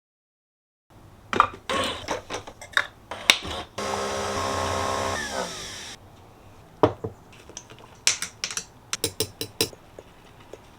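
A run of light clicks and knocks from objects being handled. In the middle a small electric motor runs for about two seconds, then winds down with a falling pitch. More scattered clicks follow near the end.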